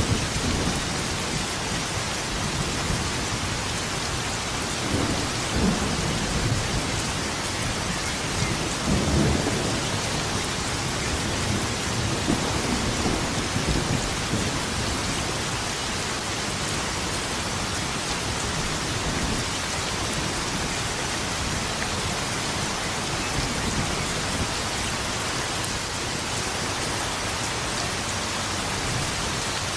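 Steady rain falling with thunder rumbling low beneath it, the rumbles swelling about five seconds in and strongest about nine to fourteen seconds in.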